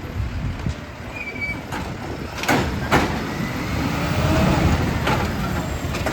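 Glass-collection garbage truck's engine running with a low rumble that swells a little past halfway. Sharp crashes of glass come about two and a half seconds, three seconds and five seconds in.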